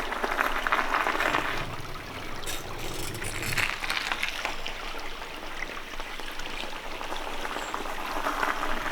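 A small creek flowing: a steady trickling, splashing rush of water.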